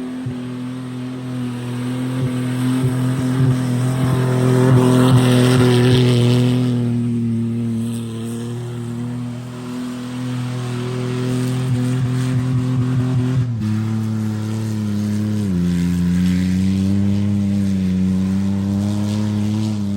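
Car engine held at steady high revs, with a loud hissing surge of noise from about four to seven seconds in, then the revs drop in two steps in the last third.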